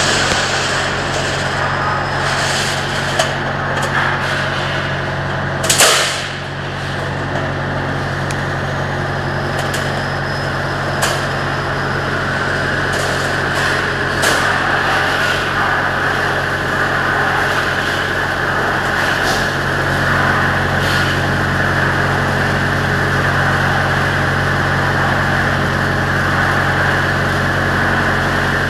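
Light-steel roll forming machine running steadily with a constant motor hum and a grinding mechanical noise, broken by a few sharp knocks, the loudest about six seconds in.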